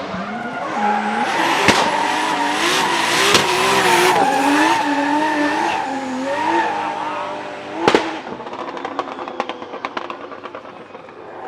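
Drift car's engine revving hard with a wavering note, with tyre squeal and skidding, for about seven seconds. A loud bang comes about eight seconds in, then a run of quick sharp pops as the engine note drops away.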